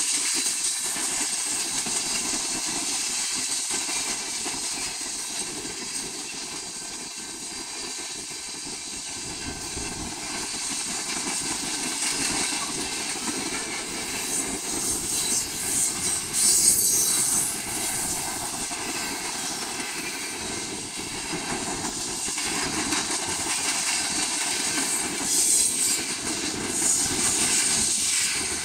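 Freight train of tank cars and covered hopper cars rolling past close by: a steady rolling noise of steel wheels on the rails, with a high hiss that swells loudest about 16 seconds in and again near the end.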